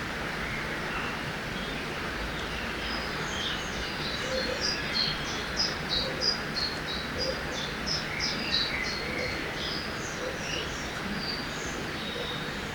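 Forest ambience by a river: a steady rushing of river water, with a songbird giving a quick run of high chirps from about three seconds in until near the end.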